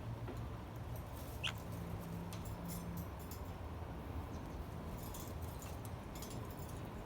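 A parrot gives one short, high squeak about a second and a half in, amid scattered light clicks and scratches, over a steady low hum.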